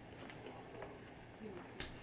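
Quiet room with faint eating noises: soft chewing and small mouth clicks, with one sharper click near the end.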